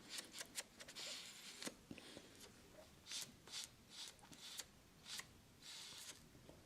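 Faint handling noises: a scatter of small clicks and short rustling hisses, a dozen or so spread irregularly.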